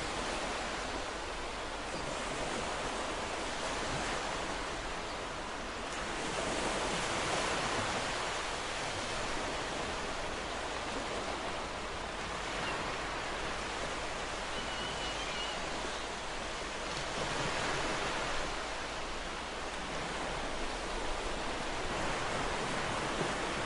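Ocean surf washing ashore as a steady hiss, swelling twice as waves come in and break.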